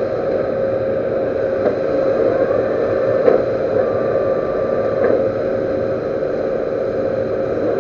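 Metal lathe running steadily with a constant hum, with a few faint clicks and two brief, thin whistling tones in the middle.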